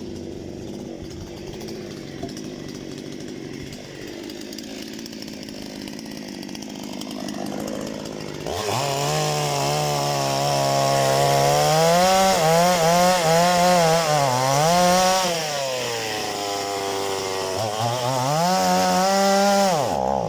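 Parma BP-058 petrol chainsaw running at a low steady speed, then revved up about eight seconds in and cutting firewood, its engine note wavering up and down as the chain bites under load. It revs again near the end and cuts out abruptly, with the tank run dry of petrol.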